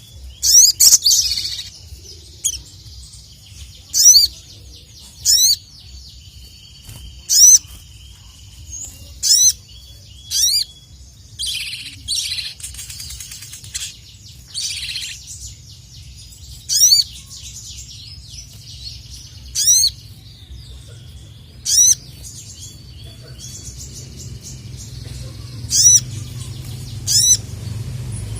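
A sogon (sogok ontong) songbird singing in full voice: loud, short, high-pitched calls of quick sweeping notes, repeated every second or two.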